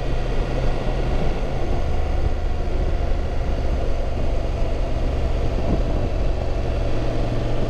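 Motorcycle engine running at a steady speed, a constant low drone with no change in pitch.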